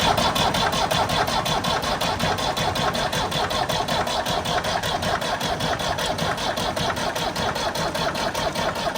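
Old Ford diesel tractor engine turning over on its electric starter without firing, a steady rhythmic cranking of about five beats a second. The injector lines are cracked open to bleed air out of the fuel system.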